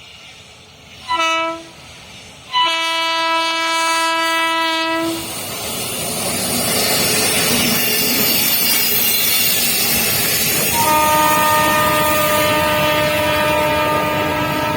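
Locomotive horn sounding a short blast, then a longer one of about two and a half seconds, followed by the loud rush and rattle of a train passing at speed, with a third long horn blast about eleven seconds in.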